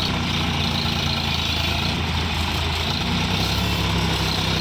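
Sonalika DI 750 RX tractor's diesel engine running steadily.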